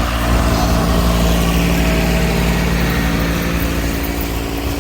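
A large engine running steadily at idle, easing off slightly near the end.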